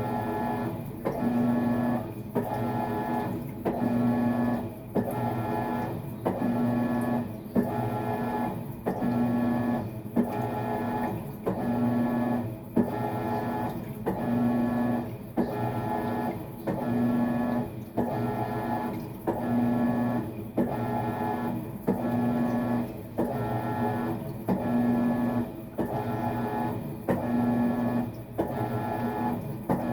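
Maytag MVWX655DW1 top-load washer agitating during a tub clean cycle. The drive motor runs in even strokes about every 1.3 s, with a short break at each reversal and a low hum note on every other stroke.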